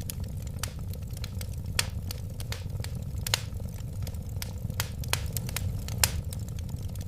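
Wood fire burning steadily with a low rumble of flame and irregular sharp crackles and pops, several each second.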